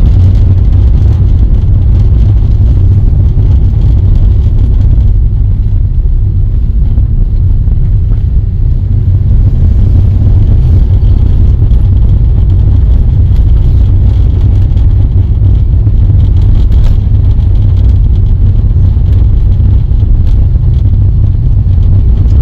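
Loud, steady low rumble of a moving car: wind and road noise.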